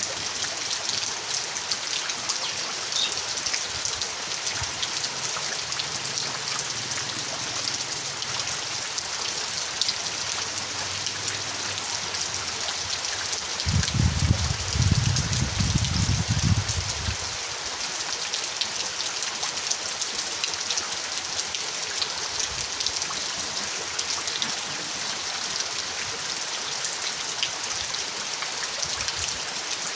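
Steady rain falling, with many fine drop patters. About halfway through, a low rumble swells and fades over some three seconds.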